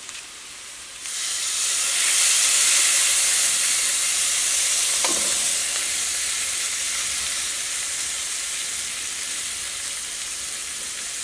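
Onion-and-spice masala frying in coconut oil in a steel pan. The sizzle jumps up about a second in as torn tomato pieces drop into the hot oil, then slowly eases off.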